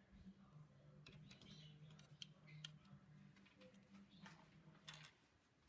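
Faint, scattered clicks of plastic LEGO pieces being handled and fitted together, over a low steady hum that stops near the end.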